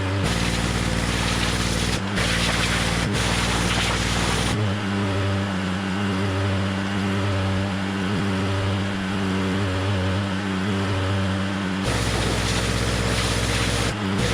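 An engine running steadily, with a broad hiss over it. About four and a half seconds in, the deep rumble and the hiss drop away and the engine note changes. They come back near the end.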